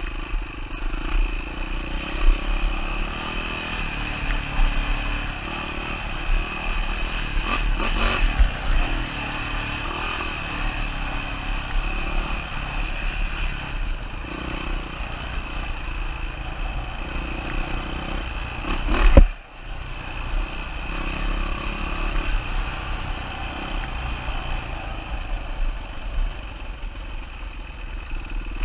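2007 Yamaha WR450F's single-cylinder four-stroke engine running under constantly changing throttle, with clattering mixed in. About two-thirds of the way through, the revs rise sharply to the loudest point, then drop away suddenly for a moment.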